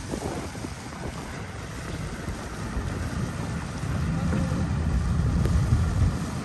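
Storm wind buffeting the microphone, a low rumble with street noise under it, growing louder about halfway through.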